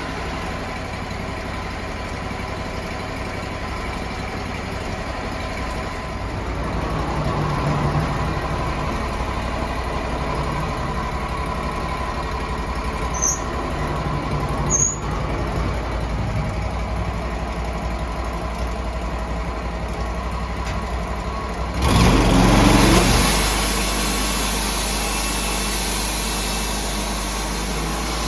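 Sawmill engine running steadily, with two brief high squeaks near the middle. About two-thirds of the way in comes a louder burst lasting about a second, after which the engine note settles lower.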